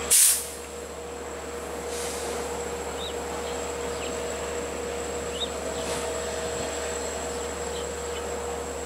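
Steady running hum of a stationary Long Island Rail Road diesel-hauled bilevel train at the platform, with a brief loud hiss right at the start.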